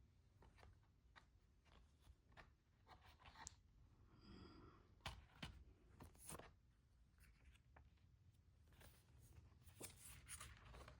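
Faint handling sounds of album packaging: scattered light rustles, taps and clicks of paper and plastic being handled.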